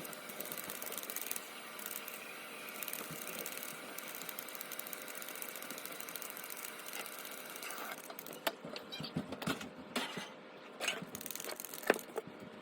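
Fresh ginger root being peeled, a faint steady scraping, followed in the last few seconds by several light clicks and knocks.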